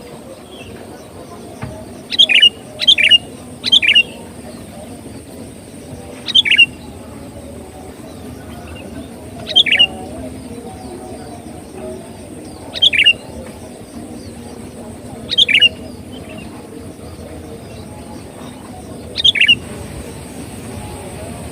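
Sooty-headed bulbul (kutilang) calling, the lure call used to attract bulbuls. Short, sharp notes each drop quickly in pitch: three in quick succession about two seconds in, then single calls every few seconds.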